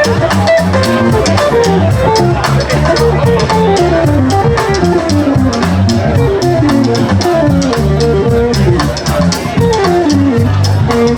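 Band music: a guitar playing repeated descending runs of notes over a bass line and a drum kit keeping a steady beat.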